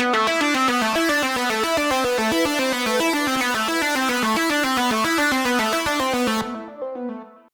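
Software synthesizer preset (Xfer Serum 2) playing a fast arpeggio of bright, evenly spaced notes. The brightness drops away at about six and a half seconds and the notes fade out just before the end.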